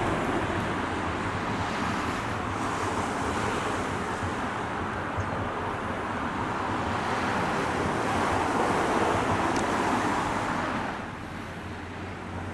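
Nose Electric Railway 5100 series electric train running, a steady rushing noise that cuts off suddenly near the end.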